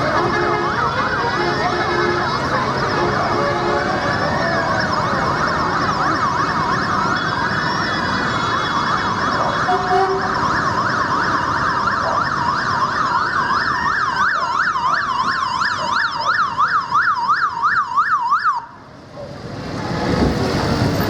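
Several emergency-vehicle sirens sounding at once: slow rising-and-falling wails overlapping with a fast yelp. The sirens cut off suddenly near the end, and road noise then builds back up.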